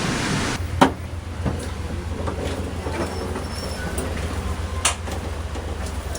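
Steady low rumble inside an Amtrak passenger train, with a few sharp knocks. A loud rushing noise cuts off about half a second in.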